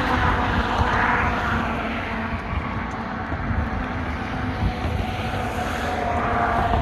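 Wind buffeting the microphone in a flickering low rumble, over a steady wash of distant noise that swells about a second in and again near the end.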